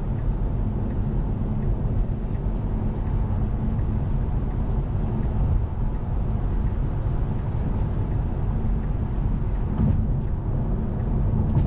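Steady road and tyre noise of a Tesla Model 3 Performance cruising at highway speed, with no engine sound.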